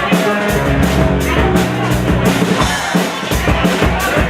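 Live rock band playing with a steady drum beat and sustained bass notes.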